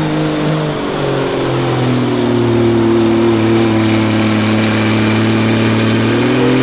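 Semi truck's diesel engine pulling a weighted sled under heavy load: the engine pitch sags over the first couple of seconds as the load builds, holds steady, then climbs slightly near the end.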